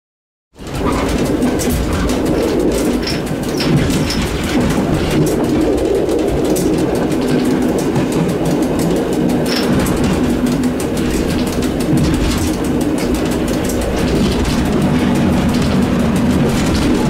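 Steady running noise of an EN57 electric multiple unit heard from its driver's cab: a low rumble with a humming tone, cutting in abruptly about half a second in. A few short high chirps sound over it.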